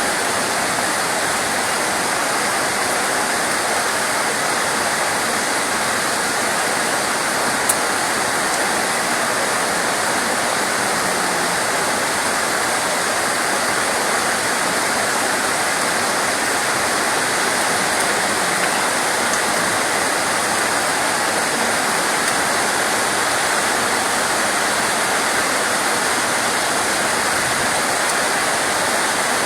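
Steady heavy rain: a dense, even rushing hiss that does not change.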